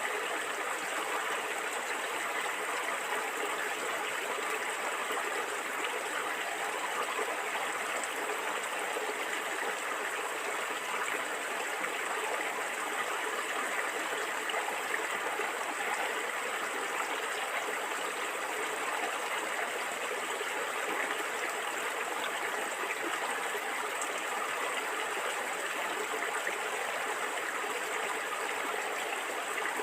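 Stream water flowing and gurgling steadily over stones.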